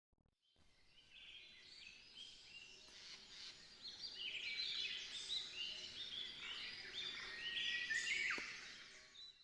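Many birds chirping and calling together in a dense chorus of short high calls, fading in and fading out.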